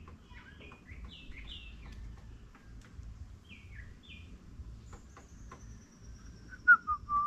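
Wild birds chirping: a quick run of short chirps, then a long thin high tone from about five seconds in, and a few louder, lower calls near the end, over a low rumble.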